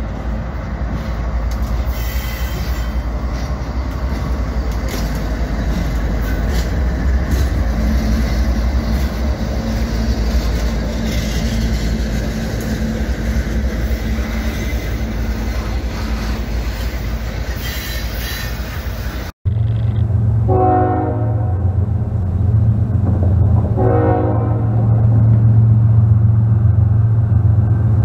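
A loaded coal train rolling past behind diesel locomotives, then a long string of coal hoppers, with a steady rumble and wheel clacking. About two-thirds of the way through the sound cuts to an approaching diesel locomotive with a steady low engine drone, sounding its horn three times.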